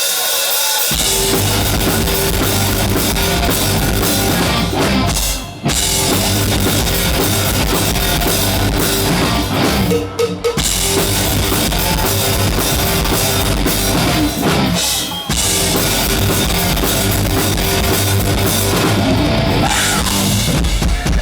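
A live hard rock band plays an instrumental passage, led by drum kit with bass drum and cymbals under electric guitar and bass. The band stops together for brief breaks about five, ten and fifteen seconds in.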